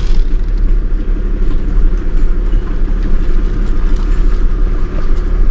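Large tow truck driving slowly down a steep switchback, a steady low engine and road rumble.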